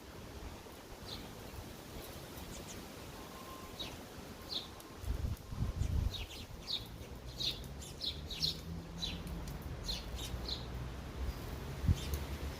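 Sparrows chirping in short, quick high notes, scattered at first and busiest through the middle, over a low rumble that comes in about halfway through.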